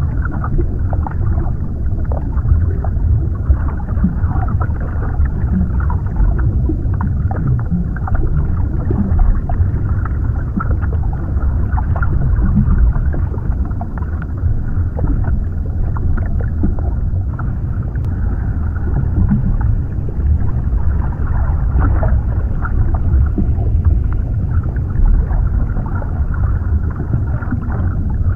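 Underwater ambience: a steady deep rumble with scattered small bubbling pops over it.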